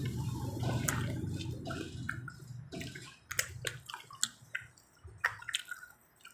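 Wet chewing and lip-smacking mouth sounds close to the microphone, a run of short sharp smacks in the second half. A low rumble fades out over the first two seconds.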